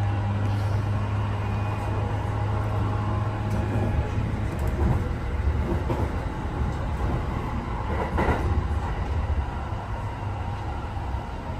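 Kintetsu 8A series electric train running, heard from inside the carriage: a steady low drone of the running gear and wheels on the rails. A faint whine fades out in the first two or three seconds, and there is a brief rattle of knocks about eight seconds in.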